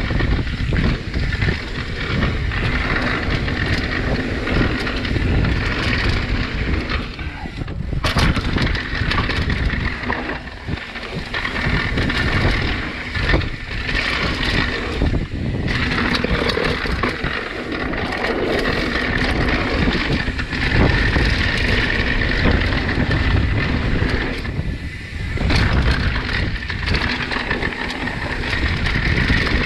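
Mountain bike descending a rough downhill trail: wind buffets the microphone over the rumble of tyres on dirt and rock, with frequent knocks and rattles from the bike over rough ground.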